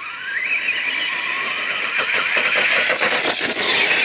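Plettenberg Bolido brushless electric motor of a 1:5 scale FG monster truck whining under full throttle, its pitch rising quickly at first and then holding high, with tyre noise, getting louder toward the end as the truck approaches at speed.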